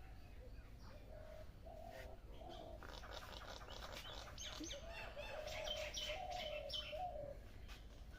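Birds chirping and calling: a few scattered notes, then a busy run of quick, high chirps mixed with lower, tuneful notes from about three seconds in until near the end, over a steady low hum.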